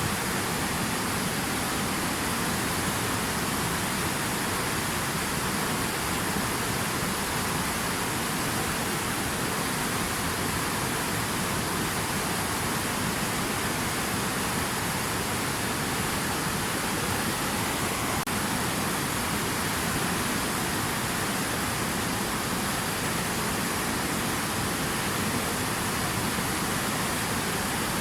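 Steady, even rush of water, with no separate splashes or drops standing out.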